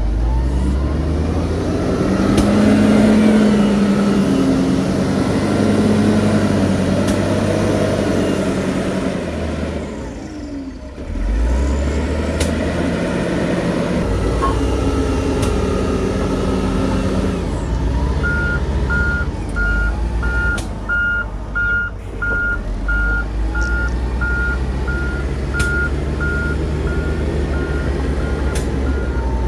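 Heavy diesel construction machinery working: a bulldozer or dump truck engine running under load, dipping briefly and revving back up partway through. From about two-thirds of the way in, a reversing alarm beeps steadily.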